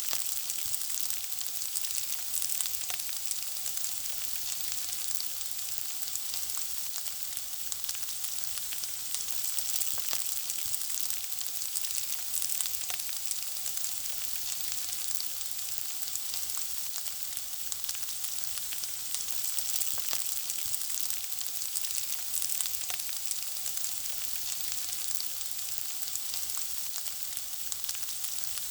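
Food frying in hot oil: a steady sizzling hiss with frequent small crackles and pops.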